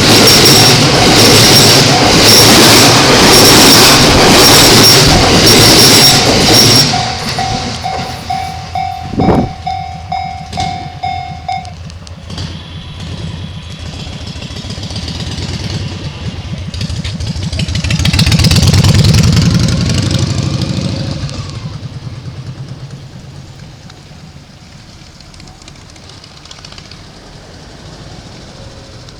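A Yokosuka Line E217-series electric train runs through a Japanese level crossing with wheels clattering on the rails, while the crossing's electronic alarm rings about twice a second. The train's noise ends about seven seconds in. The alarm rings on alone and stops about twelve seconds in. Later another vehicle's noise swells and fades.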